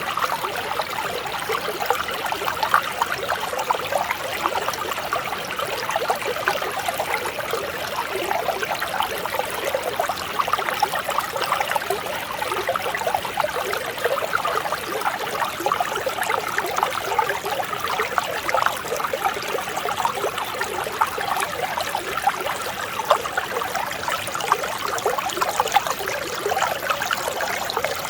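Clear mountain stream flowing and trickling over rocks, a steady, gentle, splashing water sound.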